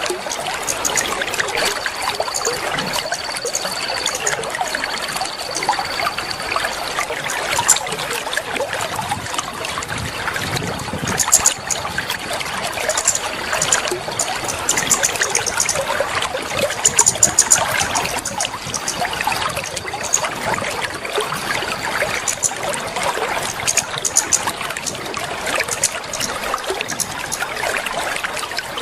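Water trickling and splashing steadily, played as a water-therapy sound to coax a caged bird into song. Thin high whistles and short chirps run over it at times.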